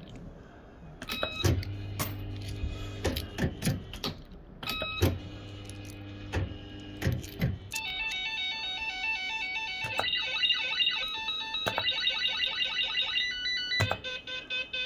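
Bell-Fruit FireCracker fruit machine in play: sharp clicks over a low hum with steady tones during the first half, then from about eight seconds in a long run of electronic beeps that step up and down in pitch.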